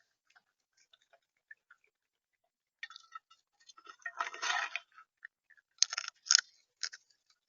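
Pecking and crunching of seed at a bird feeder right beside the camera's microphone: scattered light taps, a denser crunchy rustle about four seconds in, then a few sharp taps around six to seven seconds.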